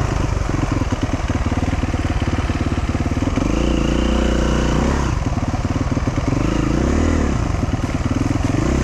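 Dual-sport motorcycle engine pulling in low gear, revving up and holding for about a second and a half a few seconds in, then rising and falling several times as the throttle is worked.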